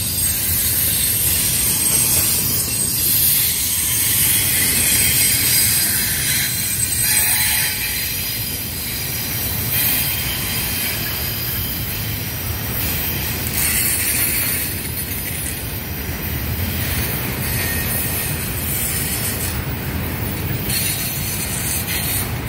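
Union Pacific freight train's double-stack container cars rolling past with a steady low rumble and thin, high-pitched wheel squeal.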